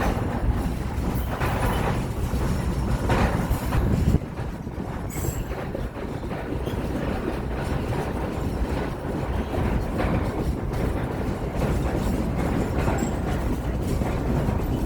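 Heritage passenger train rolling along the track: a steady rumble with faint wheel clicks. The rumble drops a little about four seconds in.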